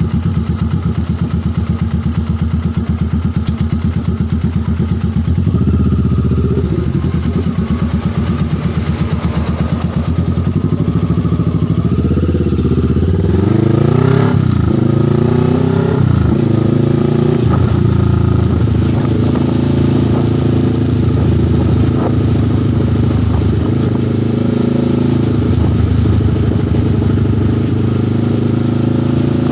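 Motorcycle engine running while being ridden: a low, pulsing engine note at first, then the pitch rises in a few steps about halfway in as it speeds up through the gears, settling into steady running.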